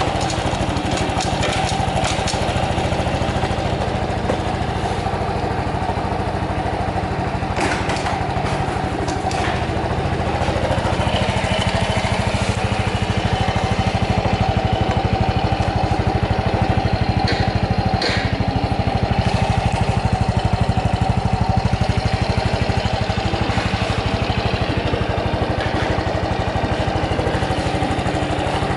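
Honda Super Cub 110's air-cooled single-cylinder four-stroke engine idling steadily, a little louder in the middle, with a few faint clicks. It runs with no abnormal noise, the sign of a healthy engine.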